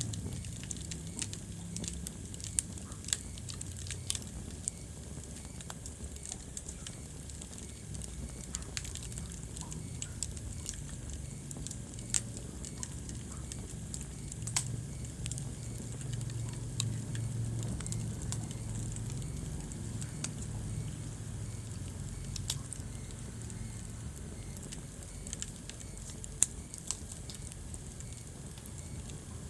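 Wood fire burning in a fireplace: a steady low rumble of flames with irregular crackling and snapping, and a few sharper, louder pops.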